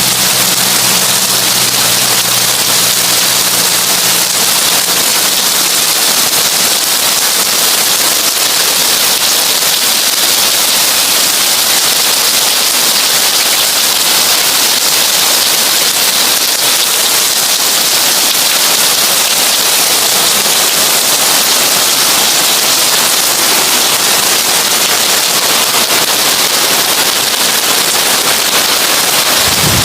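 Heavy rain on a tin roof: a dense, steady crackling patter of drops on sheet metal. A faint low hum fades out in the first few seconds.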